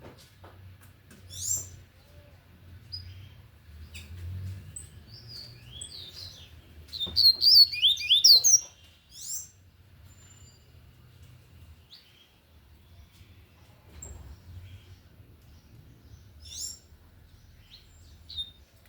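Double-collared seedeater (coleiro) singing its 'tui-tui' song: scattered short high chirps, with one loud, rapid phrase of quick up-and-down high notes about seven to nine seconds in.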